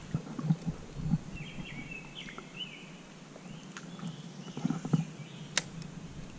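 Light knocks and thumps on a kayak hull as the boat is manoeuvred, with a few short chirps in the background and one sharp click near the end.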